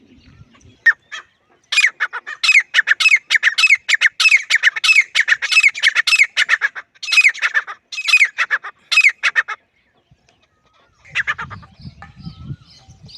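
Grey francolin calling: a long run of loud, harsh call notes repeated about three to four a second, stopping a little over two-thirds of the way through. A short, rougher, lower noise follows near the end.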